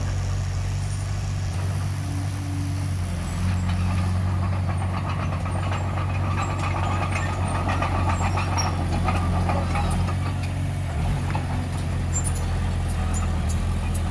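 Diesel engine of heavy earthmoving machinery running steadily, with a rattling clatter over it for several seconds in the middle.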